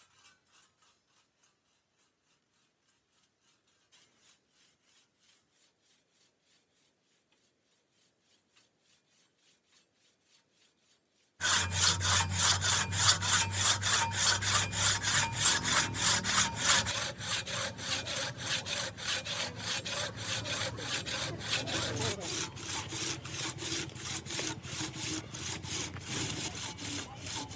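Hand saw cutting wood in steady back-and-forth strokes, about two to three a second. About eleven seconds in, the sawing turns suddenly louder and fuller.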